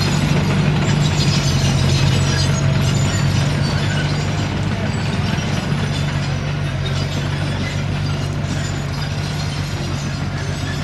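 Komatsu D21P crawler bulldozer working: its diesel engine runs steadily under the clatter and rattle of its steel tracks, easing off slightly near the end.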